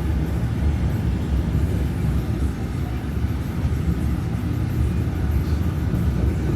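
Steady low road rumble inside a moving truck's cabin.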